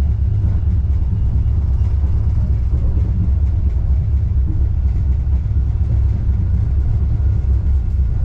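Steady low rumble of a moving Wuppertal Schwebebahn suspension railway car, heard from on board.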